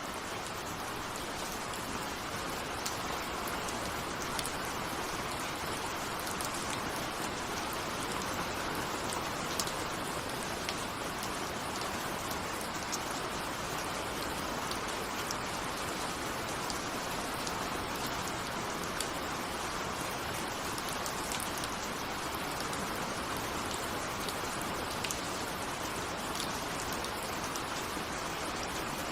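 Steady rain with raindrops pattering on a window pane, with no thunder.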